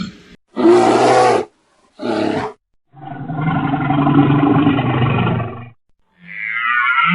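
Large animal roaring: two short roars, then a longer drawn-out roar, with another call starting near the end.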